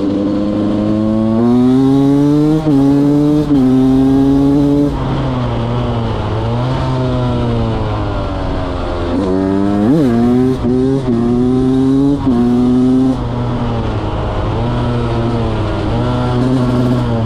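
2023 Beta 200 single-cylinder two-stroke motorcycle engine under way, its pitch climbing and then dropping abruptly at gear changes, with a quick rev blip about ten seconds in and steadier running with small rises and falls near the end.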